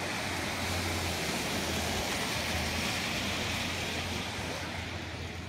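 Steady rushing noise of wind and heavy rain during a thunderstorm, swelling in the middle and easing near the end, with a low steady hum beneath.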